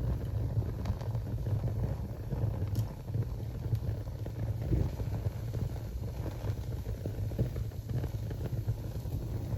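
Newly lit wood fire burning in a fireplace: a steady low rumble of flames with a few faint crackles.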